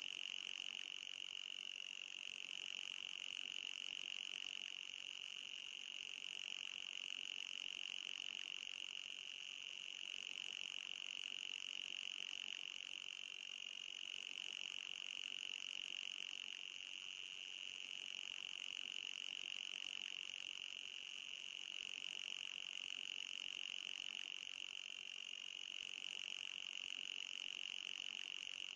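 Anti-mosquito repeller sound effect: a continuous high-pitched drone with a fainter, higher band above it, holding steady with slight wobbles every dozen seconds or so.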